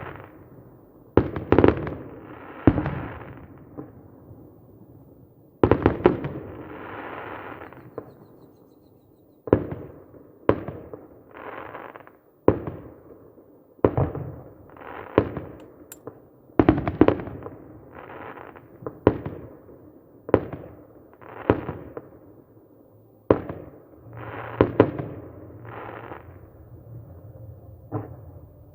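Fireworks salute: aerial shells bursting one after another, about twenty sharp bangs at uneven intervals of one to three seconds. Each bang trails off in a short fading rumble and crackle, with a brief lull a few seconds in.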